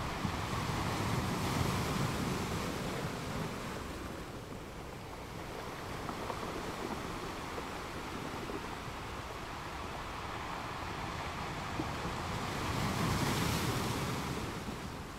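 Rushing noise of sea surf, swelling about a second in and again near the end.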